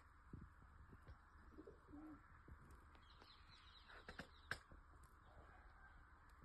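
Near silence with faint bird calls: a short low cooing note about two seconds in and light chirps a little later, among a few soft clicks.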